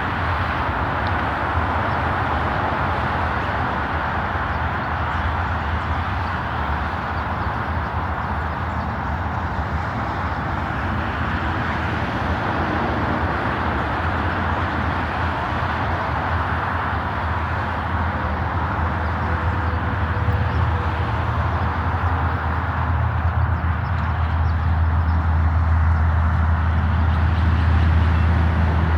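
Steady vehicle noise: a low hum under a broad hiss, growing a little louder near the end.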